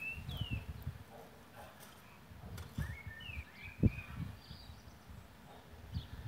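Small birds chirping in short runs of quick sliding notes, over soft low thumps, with one sharper knock a little past the middle.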